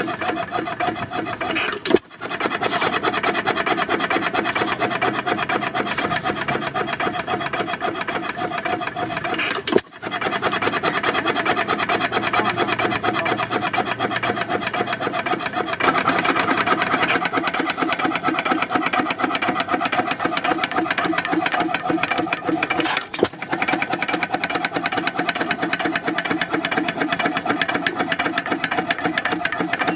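Antique gas engine being turned over by a starter without firing, a fast rasping mechanical sound broken off briefly about 2, 10 and 23 seconds in. The engine is not catching yet because the fuel has not come through the line.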